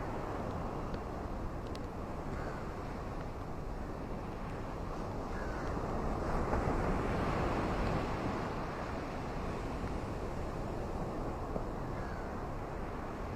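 Steady rushing of sea surf and wind, swelling louder around the middle.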